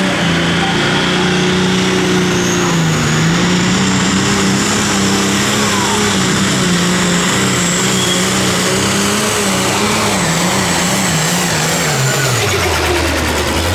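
Diesel pulling tractor's engine running hard at full throttle down the track, its pitch wavering slightly under load, with a high whine over it. About twelve and a half seconds in, the engine note drops sharply as it throttles down at the end of the pull.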